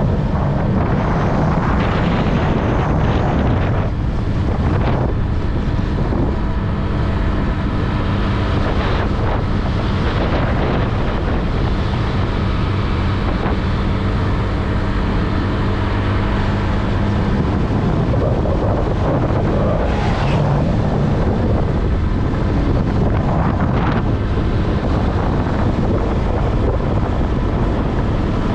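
Wind buffeting the microphone of a Honda Click 125i scooter on the move, over the steady hum of its single-cylinder engine. A few brief swells stand out, about four seconds in, around ten seconds, and twice near the end.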